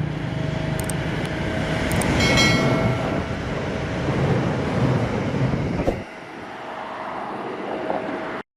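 Diesel passenger train running past, a steady low engine rumble with a few clicks from the wheels and a brief high-pitched tone about two seconds in. About six seconds in the low rumble drops away, and the sound cuts off abruptly near the end.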